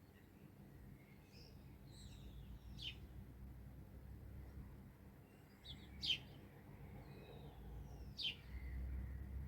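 Wild songbirds calling: three sharp, loud chirps that fall in pitch, spaced a few seconds apart, with fainter twittering between them. A low background rumble runs underneath.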